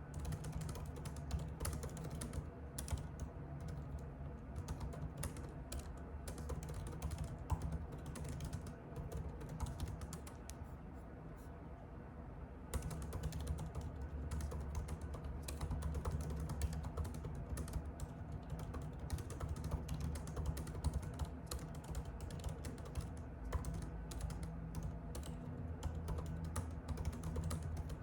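Typing on a computer keyboard: a dense, irregular patter of key clicks over a low steady hum. The typing thins out for a few seconds about a third of the way in, then picks up again.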